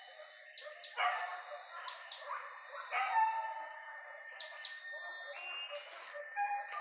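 Forest birds chirping, with short high chirps scattered throughout and two louder calls, about one and three seconds in.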